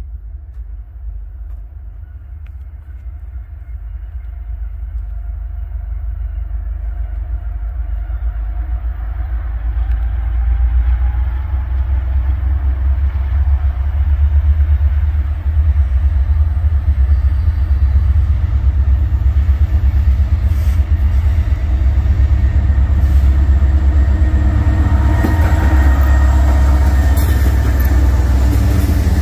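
Diesel locomotives of a Norfolk Southern freight train approaching, their low engine rumble growing steadily louder over the first ten seconds or so and then holding loud and steady as the train runs by.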